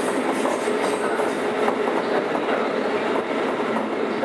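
Keikyu 600 series electric train with a Toyo Denki VVVF inverter, heard from inside a motor car while running: a steady rumble of wheels on the rails with a run of clicks over rail joints.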